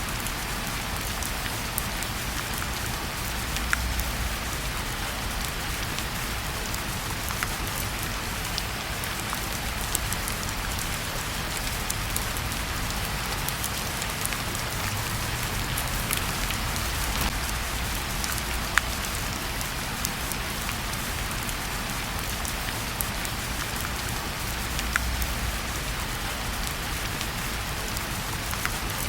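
Steady rain falling, an even hiss with scattered sharp ticks of drops striking.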